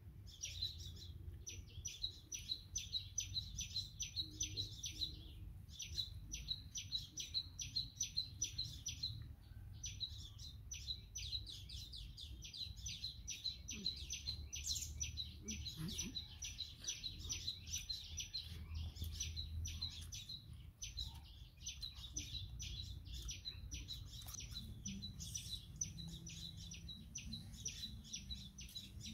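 Birds chirping in quick, even repeated notes, many a second, carrying on nearly without pause with a couple of short breaks, over a faint low rumble.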